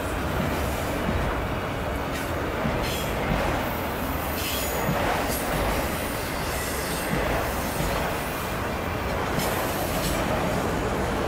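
Freight train of autorack cars rolling past at close range: a steady rumble and clatter of steel wheels on the rails, with a faint high wheel squeal about four seconds in.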